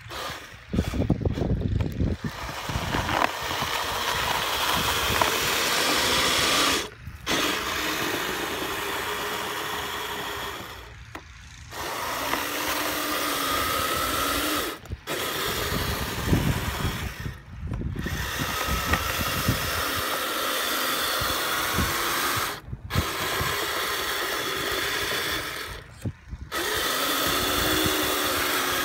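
Electric drive of a Kyosho Blizzard FR radio-controlled snowcat whining as it runs in bursts, the pitch rising and falling with throttle and cutting out briefly about six times, with a low rumble from the tracks and plow in snow.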